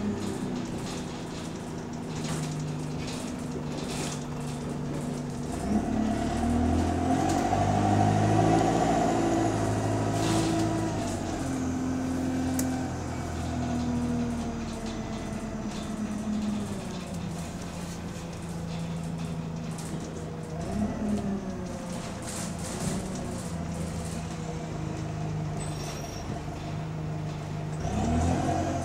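Bus engine and drivetrain heard from inside the passenger cabin, its pitch rising and falling as the bus pulls away, speeds up and slows.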